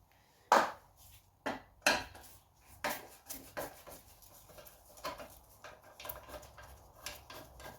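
Screwdriver and small screws clinking and knocking as a moped's side cover is unscrewed and taken off: a string of sharp separate clicks, the loudest about half a second in, then several lighter ones.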